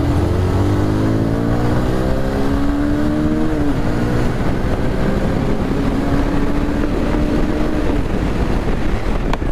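Motorcycle engine pulling hard in one gear, its pitch rising for about three and a half seconds, then falling at a gear change and settling into a steadier cruise. Heavy wind and road noise run underneath.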